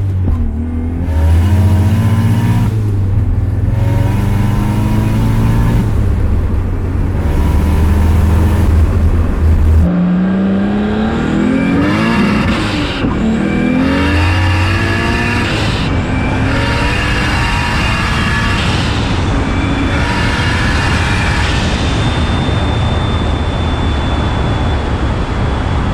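Turbocharged 1JZ-GTE straight-six in a Lexus LS400 accelerating hard at full throttle. The revs climb and drop back again and again as it goes up through the gears.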